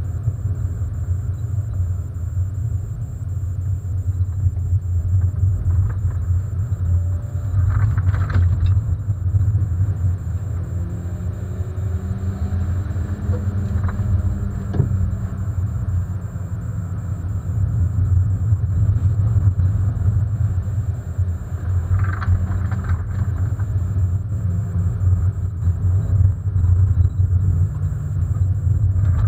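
Hyundai Coupé 1.6 16v four-cylinder engine running as the car drives, a steady low rumble. The engine note rises and falls gently around the middle. Brief sharper sounds come about eight seconds in and again about twenty-two seconds in.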